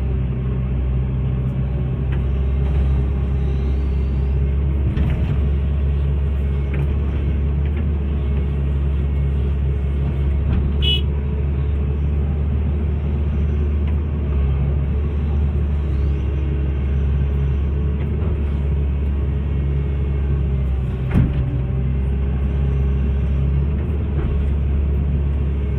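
Hitachi excavator's diesel engine running steadily at a constant low hum, with a few light knocks over it, the sharpest near the end.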